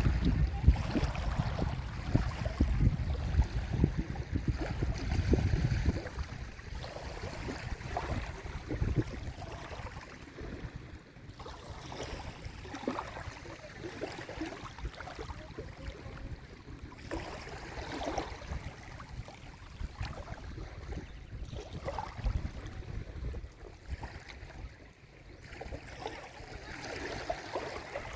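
Small sea waves washing and lapping onto a shore. For the first six seconds a heavy gusty rumble of wind on the microphone sits under the water, then it drops away, leaving a quieter wash with scattered small splashes.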